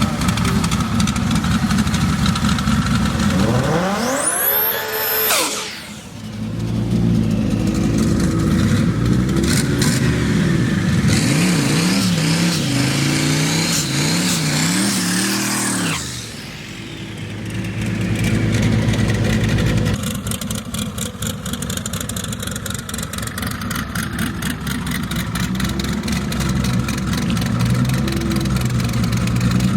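Turbocharged drag-race car engines revving and accelerating hard. About four seconds in, one engine climbs steeply in pitch and fades. Later the revs rise and fall quickly several times in a row, with abrupt changes between segments.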